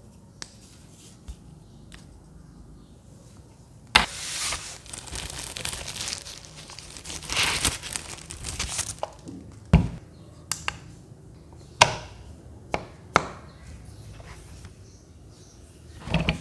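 Product packaging being unwrapped by hand: plastic wrapping crinkling and tearing for about five seconds, starting about four seconds in, followed by several separate knocks as the box and parts are handled.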